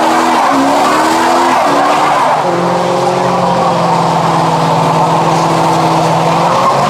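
Car doing a burnout: tyres screeching continuously while the engine is held at high revs, the revs wavering at first and then holding steady from about two and a half seconds in.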